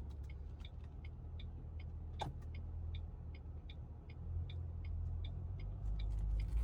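A car's engine and road rumble, low and steady, heard from inside the cabin as it rolls slowly into a parking lot. Over it, a turn-signal indicator clicks evenly about two and a half times a second. There is a brief squeak about two seconds in.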